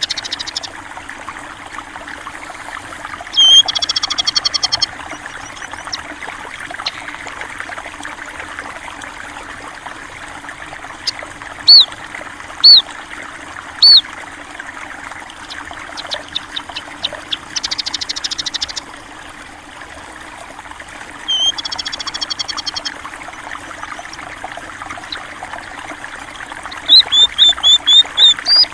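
A stream trickling and rushing steadily, with small birds calling loudly over it: short buzzy trills near the start, in the middle and about three-quarters through, three sharp chirps around the middle, and a quick run of chirps near the end.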